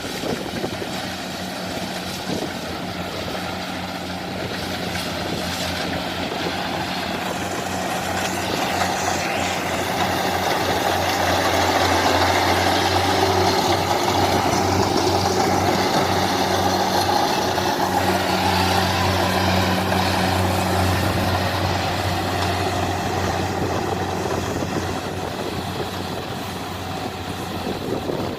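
Large diesel engine running steadily with a low hum; it grows louder toward the middle and eases off near the end.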